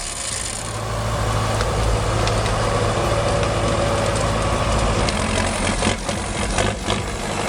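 Diesel tractor engine running steadily under load, louder from about a second in, with a few short knocks near the end.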